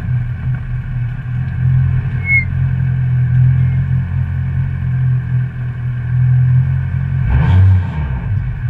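Citroen C2 GT track car's engine running steadily at low revs, heard from inside the cabin. A brief high squeak comes about two seconds in, and the engine sound swells for a moment near the end.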